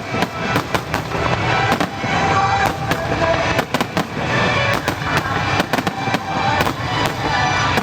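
Starmine fireworks barrage: shells bursting in quick, irregular succession, about two sharp bangs a second, over music played along with the display.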